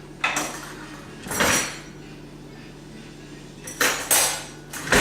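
Metal silverware clattering and clinking as it is handled and put away, in about five short bursts.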